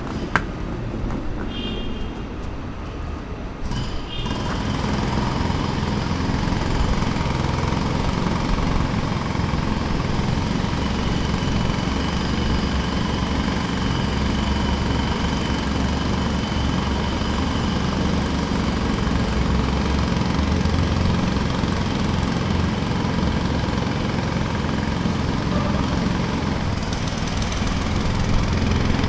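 Jackhammer hammering continuously in a rapid, even rattle, under a steady engine drone; it gets louder about four seconds in and then runs on unchanged.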